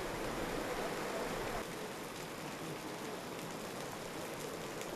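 Steady rush of typhoon rain and wind, with faint scattered pattering of drops.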